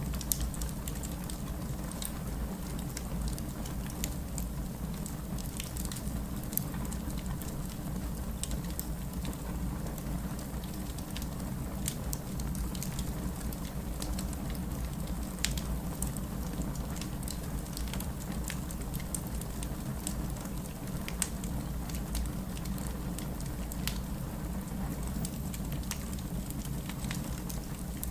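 Wood fire in a fireplace crackling: a steady low rumble of the burning fire with irregular sharp pops and snaps scattered throughout.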